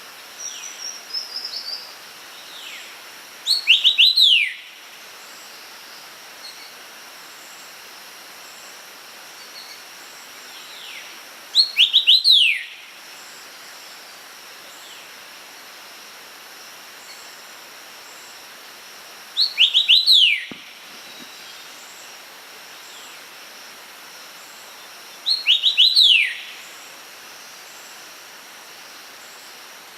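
A bird calling a short phrase of three or four quick notes, each falling in pitch, repeated four times about every six to eight seconds, over a steady background hiss. A second, fainter and higher-pitched bird call sounds in the first two seconds.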